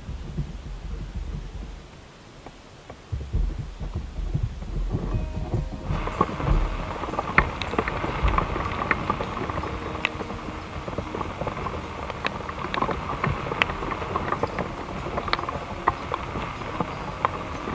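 Heavy rain on a flysheet tent, a steady patter with many sharp drop ticks, starting abruptly about six seconds in; before that, low rumbling.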